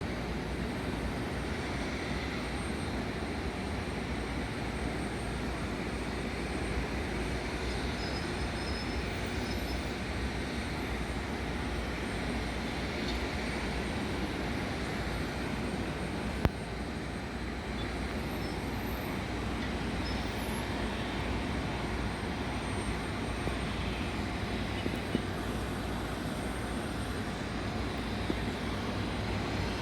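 Steady rumble and hiss of an Airbus A330's jet engines at low taxi power, with a single sharp click about halfway through.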